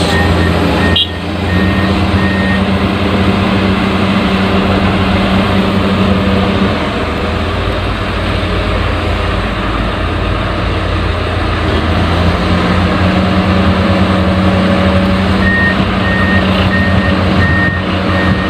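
Excavator's diesel engine running with a steady low drone, and a reversing alarm beeping during the first two seconds and again over the last three.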